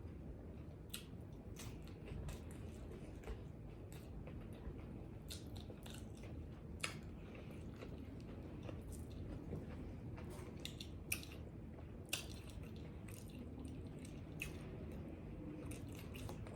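A person chewing and biting pizza tacos close to the microphone: irregular sharp wet mouth clicks and crunches, a few every couple of seconds.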